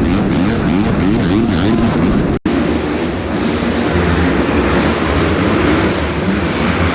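Dirt bike engines on an arenacross track, their pitch climbing and dropping quickly as the riders rev on and off the throttle. About two and a half seconds in, the sound drops out for an instant and comes back with steadier engine tones.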